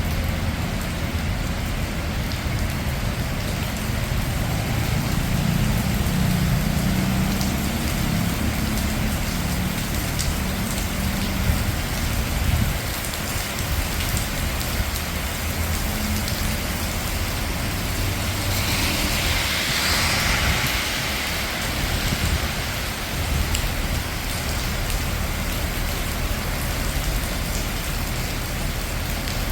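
Steady rain falling on a city street with traffic: a low rumble of vehicles through the first half, and a car swishing past on the wet road about two-thirds of the way through.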